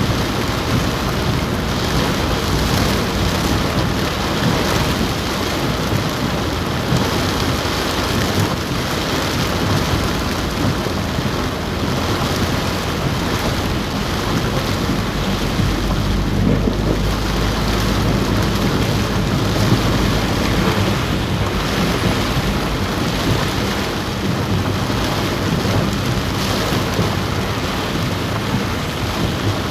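Heavy rain drumming steadily on a car roof, heard from inside the car. A deeper low rumble swells briefly a little past the middle.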